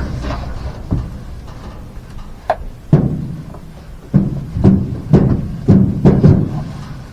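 A series of about nine sharp, hollow knocks, a few scattered at first and then about two a second in the second half.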